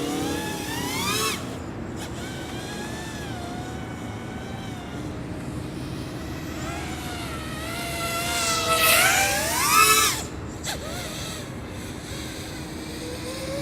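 Eachine Wizard X220 FPV racing quadcopter on a 4S battery: its motors and propellers whine, the pitch climbing and dropping as the throttle changes. It passes loudly twice, about a second in and again around nine seconds in, each time with a sharp rising whine that cuts off.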